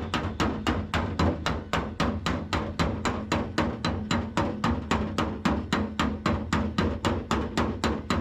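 Rapid, evenly paced hammer blows, about four a second, from panel-beating the truck cab's damaged sheet metal, over a steady low hum.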